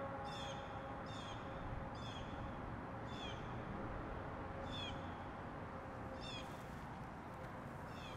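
A bird repeating a short, high call that falls in pitch, about once a second, over a steady background hum.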